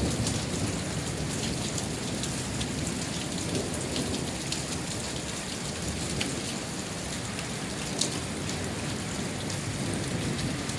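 Steady thunderstorm rain falling, with scattered drops ticking close by. A low rumble of thunder lies underneath, strongest at the start.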